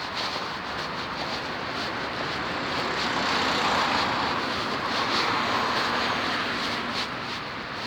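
Road traffic noise, with one vehicle passing that swells in the middle and then fades.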